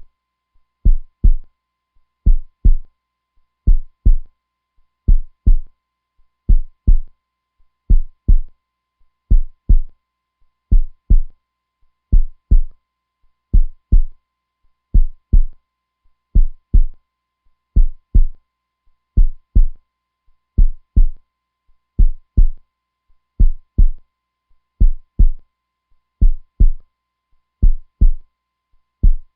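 Heartbeat: slow, steady pairs of deep lub-dub thumps, about one beat every second and a half.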